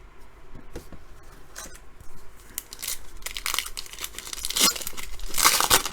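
Foil wrapper of a trading-card pack crinkling and being torn open, in several crackly bursts with the loudest near the end, along with light clicks of cards being handled.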